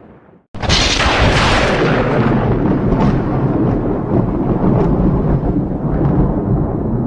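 Thunderclap: a sudden loud crack about half a second in, after a brief silence, then a long rolling rumble with scattered crackles.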